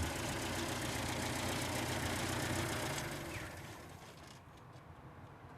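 1971 Citroën ID19B's four-cylinder engine idling, then switched off about three and a half seconds in and running down.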